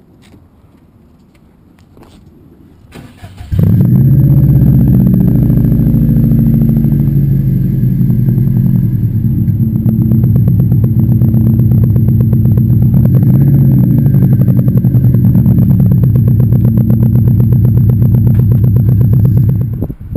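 Subaru Impreza WRX's flat-four engine cranked on the starter about three seconds in, catching and then idling steadily and loudly, dropping away right at the end.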